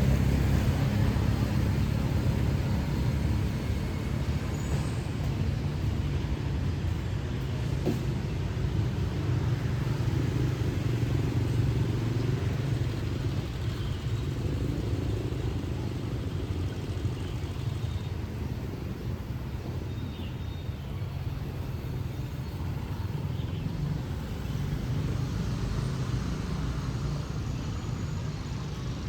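City street traffic: motor vehicles running and passing in a steady low rumble, loudest at the start and easing a little afterwards.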